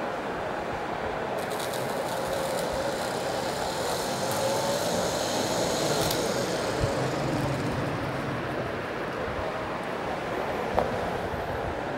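Small 12-volt brushed DC motor, opened up with its carbon brushes removed, spinning while battery leads are held by hand against its commutator. It gives a faint wavering whine over a steady hiss, with fine crackling where the leads touch the commutator and a single click near the end.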